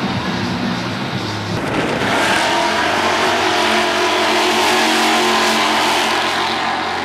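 Fox-body Ford Mustang accelerating hard down a drag strip and passing close by at full throttle. Its engine grows much louder about two seconds in, stays loud and eases off near the end.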